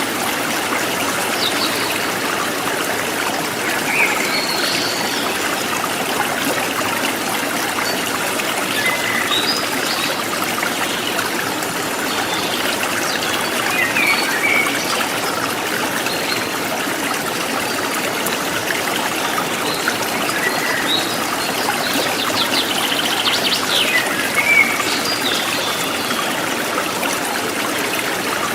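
A river stream flowing steadily over stones, an even rush of water, with short bird chirps scattered throughout.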